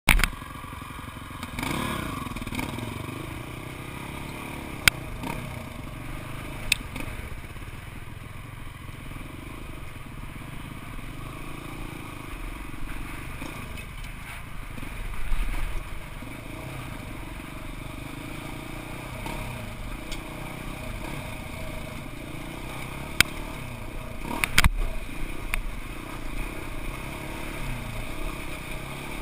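Off-road vehicle engine running at low, varying speed while crawling along a rocky wash, its pitch rising and falling with the throttle. It is broken by a few sharp knocks and clatter, loudest about 25 seconds in.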